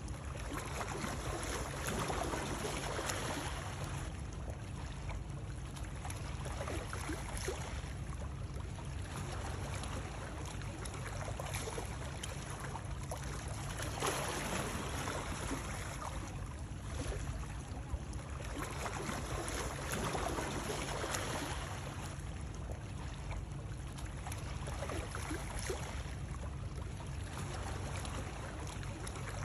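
Continuous running water used as soothing white noise, a steady rush that swells and eases every few seconds.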